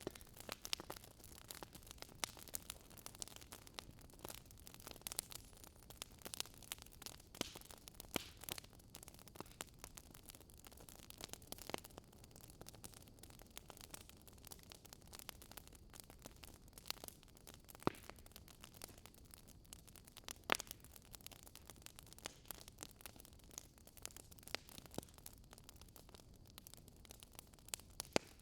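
Wood fire crackling in a fireplace: sharp pops and snaps at irregular intervals over a soft hiss, with a couple of louder pops about two-thirds of the way through.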